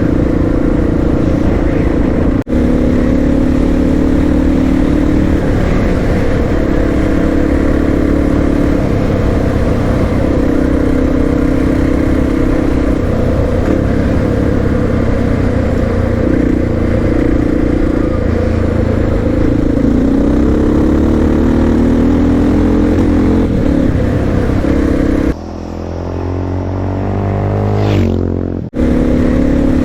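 Honda XR650R's big single-cylinder four-stroke engine running while riding, its pitch rising and falling with throttle and gear changes. About 25 seconds in it drops quieter and climbs steadily in pitch as it revs up, then cuts off abruptly.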